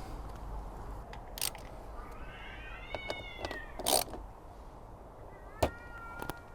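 A very unhappy cat meowing: two drawn-out calls, one about two seconds in that rises and falls and another near the end. Several sharp clicks and knocks come in between, the loudest about four seconds in.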